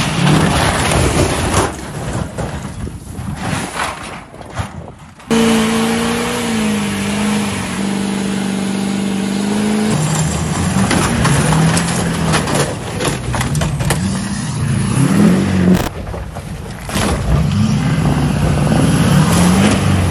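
Truck engine revving and being driven hard in a string of abruptly cut clips, its pitch rising and falling, with a stretch held at a steady high pitch.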